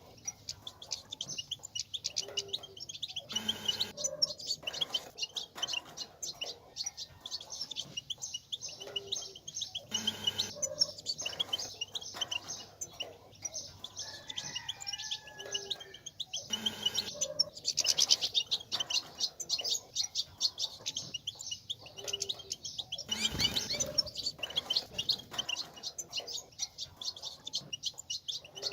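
European goldfinches twittering: a dense run of rapid, high chirps and trills, swelling into louder bursts about every six to seven seconds, with a brief lower gliding call near the middle.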